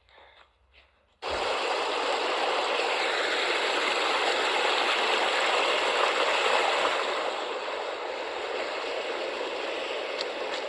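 A few faint soft footsteps, then from about a second in a loud, steady rushing of heavy rain and rainwater running down a mountain path.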